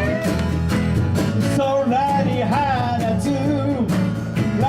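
Live band playing a rock-style song with guitar and drums, a bending melody line carried over a steady beat.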